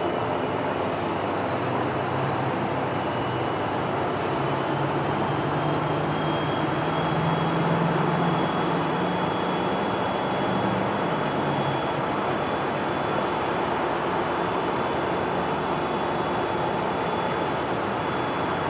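Siemens Charger diesel locomotives idling while the train stands in the station: a steady engine hum with a thin high whine above it.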